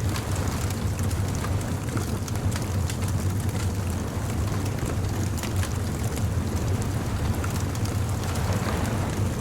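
Bonfire crackling with frequent small, sharp pops over a steady low rumble.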